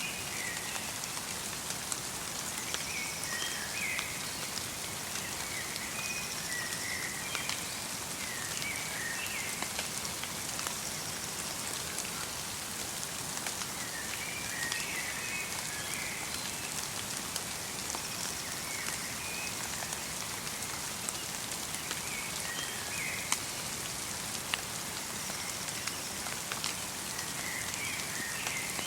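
Light rain falling in a forest: a steady patter, with single drops ticking sharply. A small songbird gives short bursts of high chirps every few seconds.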